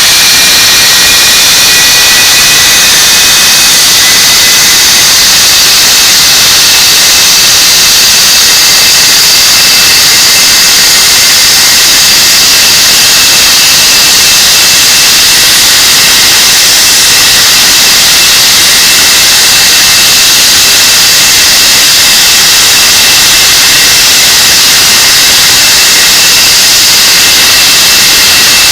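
English Electric Lightning's Rolls-Royce Avon turbojet engines running on a ground run: a loud, steady rush with high whining tones that rise slightly over the first few seconds and then hold.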